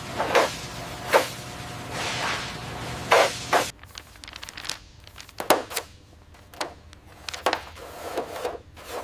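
Scattered knocks and clanks of workshop handling, a few per second at most. A steady background hum under the first few knocks cuts off suddenly about a third of the way in, and the knocks go on over a quieter background.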